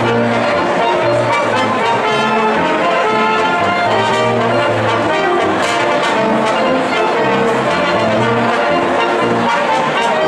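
Brass ensemble playing, with trumpets over trombones, in held notes that change about every half second.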